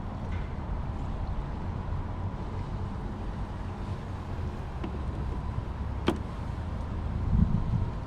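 Steady low rumbling noise with a faint steady tone, and one sharp click about six seconds in.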